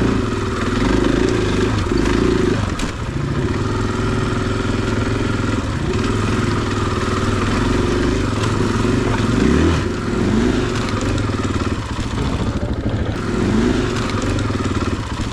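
Single-cylinder four-stroke enduro dirt bike engine running under load over rough ground, with short bursts of throttle that make its pitch rise, about ten seconds in and again near the end.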